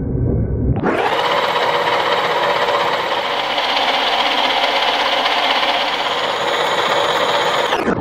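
Meuser M0 metal lathe running: a steady mechanical whirr with several steady tones. It starts abruptly about a second in and stops abruptly at the end, after a brief deep rumble.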